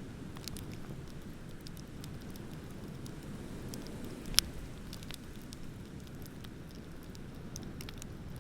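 Bonfire crackling with scattered sharp pops over a steady low rumble, and one much louder pop about halfway through.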